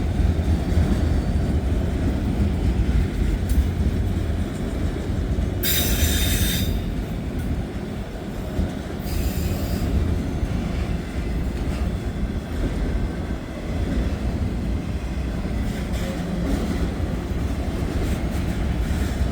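Freight train of auto rack cars rolling past with a steady low rumble, with two brief high-pitched wheel squeals, about six and nine seconds in.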